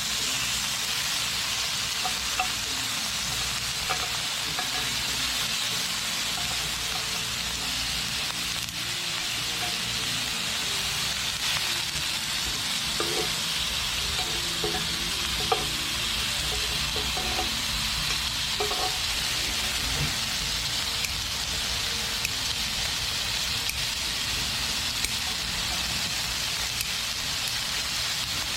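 Thick pieces of Jeju black pork neck sizzling steadily on a hot griddle, with scattered small pops and clicks.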